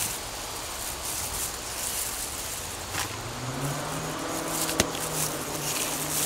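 Rustling noise, joined a little past halfway by the steady hum of a motor vehicle's engine running nearby, with a sharp click about five seconds in.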